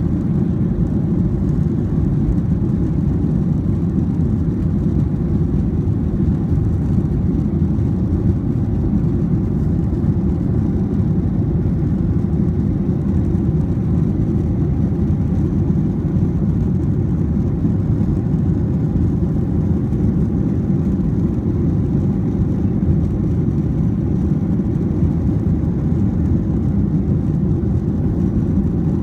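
Steady low drone of a jet airliner heard inside the passenger cabin during the climb, engines and airflow with no change in pitch or level.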